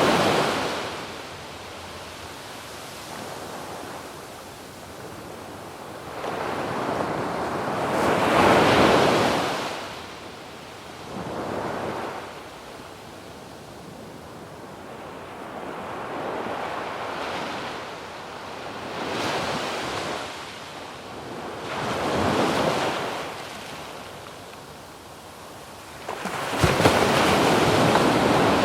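Ocean waves breaking on a sandy beach and washing up the shore, each wave a swell of surf noise that rises and fades, with a big break about eight seconds in, smaller ones between, and another big one arriving near the end with a sharp crack.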